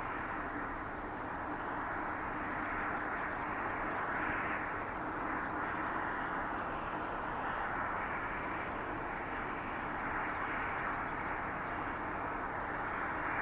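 Airbus A330-202 with two GE CF6-80E1 turbofan engines, a steady jet rush that swells slightly a few times.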